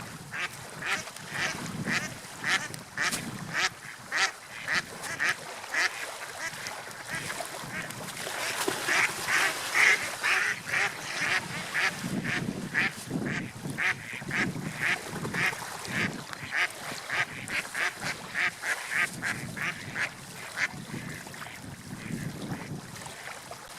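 Birds calling over and over, short calls about two a second, louder in a cluster near the middle, over a steady wash of water and wind.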